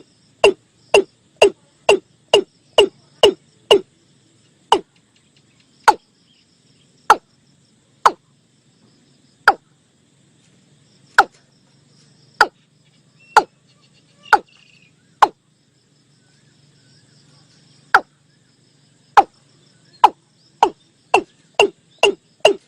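Watercock calls: a series of hollow, sharp 'kok' notes, each falling quickly in pitch. They come about three a second at first, slow to about one a second, then speed up again near the end. Faint insect chirring runs underneath.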